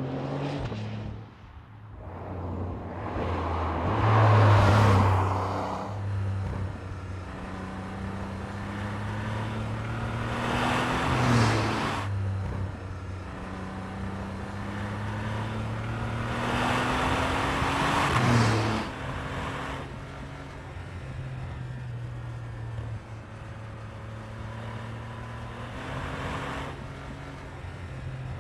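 Porsche 992.2 Turbo S's twin-turbo flat-six under way, its note climbing slowly in pitch through a gear and dropping at each upshift, twice. Several louder surges of noise rise over the engine note as it pulls.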